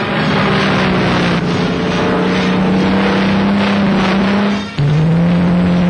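Supermarine Spitfire's piston aero engine droning steadily on a test flight. Near the end the sound drops out briefly and comes back at a slightly lower pitch, rising a little.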